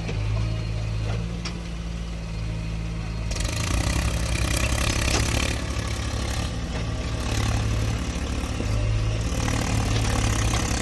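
Heavy diesel engine running steadily. About three seconds in, it is joined by a louder, rougher rushing noise.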